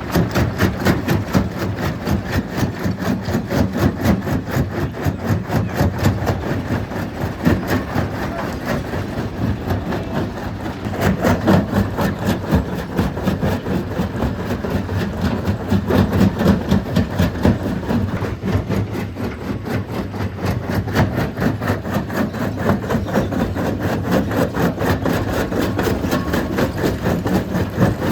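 Stone crushing machine running under load, breaking rock: a loud, steady clatter of rapid knocks over a low mechanical rumble.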